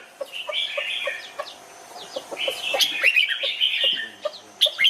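Red-whiskered bulbuls singing: quick, warbling phrases of short sliding notes, in two bursts. Underneath runs a steady series of low, short notes at about three a second.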